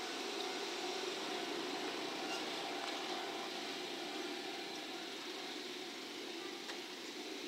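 Steady running noise of an N700 Shinkansen set moving away along an elevated viaduct, fading slowly, with a faint steady hum.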